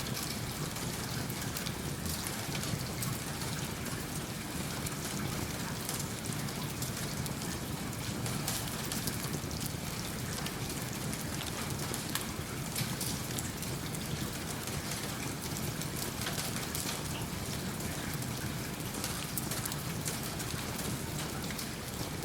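Steady rain falling, with a wood fire crackling in a fireplace: an even hiss of rain scattered with many small sharp crackles and drop ticks.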